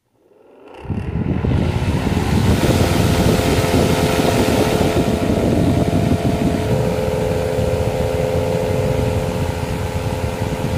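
Small DC motor of a homemade table fan spinning up, rising in pitch over the first second or two, then running with a steady whir.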